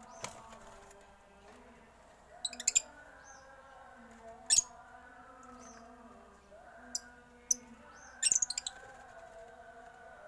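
Caged birds giving short, sharp, high chirps, singly and in quick clusters, about six times, over a faint steady background of held tones.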